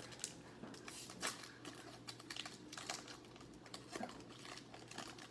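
Irregular light clicks and taps of trading cards and packaging being handled and shuffled on a tabletop.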